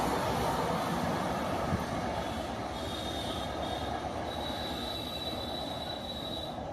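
Express passenger train that has just run through a station at speed, its rumble and wheel noise dying away as it recedes. A thin, steady high whistle-like tone joins in about two and a half seconds in and holds until near the end.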